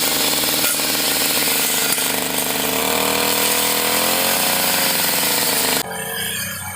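Brush cutter engine running hard, its pitch wavering and sliding as the spinning blade takes load. It cuts off abruptly about a second before the end, giving way to a quieter sound.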